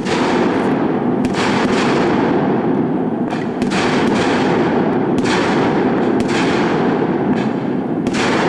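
Fireworks going off: sharp bangs at irregular intervals, some in quick pairs, over a continuous low rumble.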